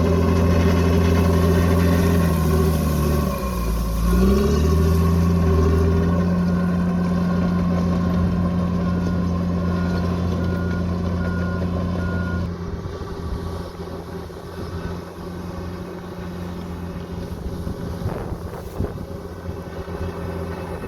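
Bulldozer's diesel engine running under load, its pitch dipping and picking back up a few seconds in. A reversing alarm beeps steadily for a few seconds around the middle, and after that the engine sound turns quieter and rougher.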